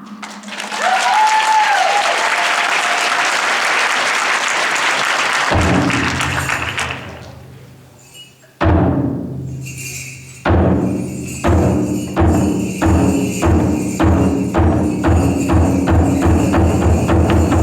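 Japanese taiko drums in live performance: after a long hissing wash of sound and a low held tone, a single heavy drum strike rings out, then the drums settle into a steady beat of deep strikes that gradually quickens.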